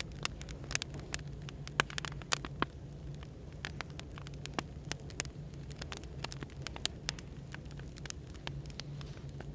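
Burning firewood crackling with irregular sharp pops, a few much louder than the rest, over a steady low hum of café white noise.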